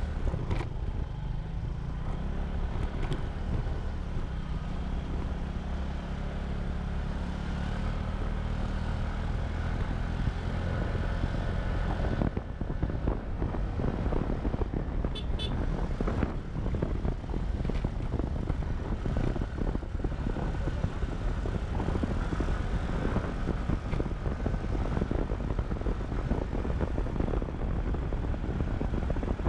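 Motorcycle engine running as the bike rides along, with wind and road noise over it. About twelve seconds in the sound turns rougher and gustier. A brief high beep, like a horn toot, comes shortly after.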